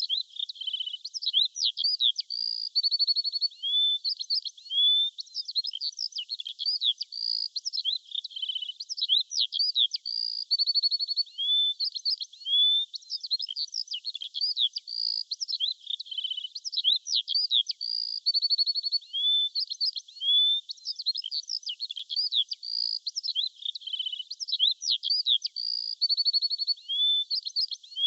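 Small songbirds chirping and twittering in quick, varied, high-pitched phrases with short whistled notes. The same sequence of calls repeats about every seven seconds, as a looped recording.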